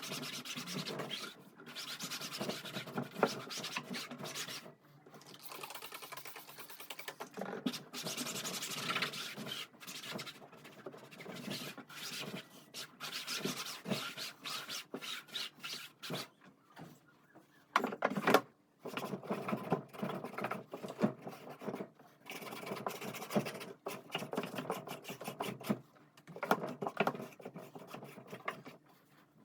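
Irregular bursts of rubbing and scraping, as of things being handled and moved about, with short pauses between them and one sharp knock about eighteen seconds in.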